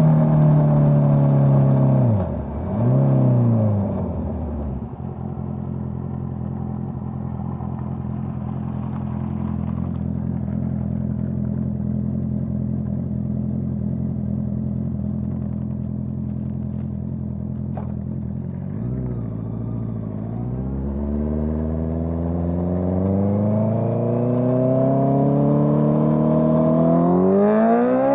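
Honda CBR650R's inline-four engine through a Dominator GP full-system aftermarket exhaust. About two seconds in the revs drop with a quick throttle blip, then hold steady for a long stretch. After another dip the revs climb steadily as the bike accelerates near the end.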